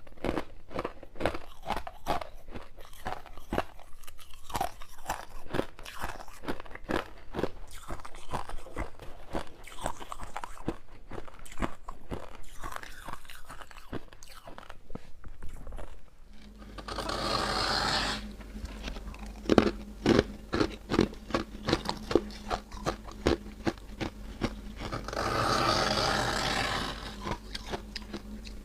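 Close-miked biting and chewing of freezer frost: dense, irregular crunches. A steady low hum comes in about halfway through, and two longer continuous crunching stretches follow.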